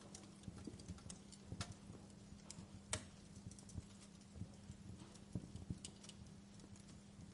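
Fire crackling: irregular small pops and snaps, a sharper pop about three seconds in, over a faint steady low hum.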